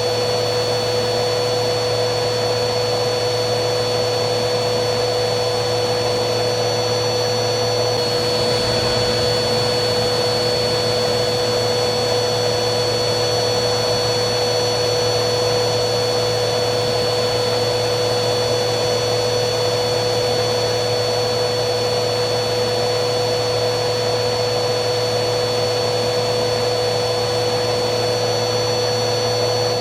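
Vacuum cleaner motor running continuously at a steady pitch, a smooth rushing noise with a fixed motor whine.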